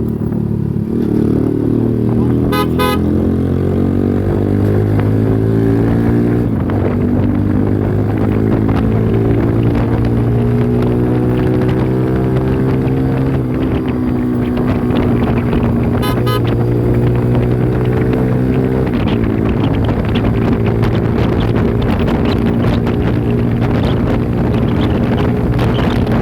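Yamaha YBR motorcycle's single-cylinder four-stroke engine pulling hard toward top speed, its pitch climbing in each gear and dropping back at upshifts about 6, 13 and 19 seconds in. A short horn toot sounds twice, near 3 and 16 seconds in, and wind noise grows over the later part.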